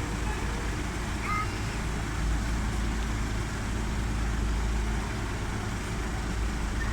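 A car ferry's engine running with a steady low rumble and an even hiss of noise above it.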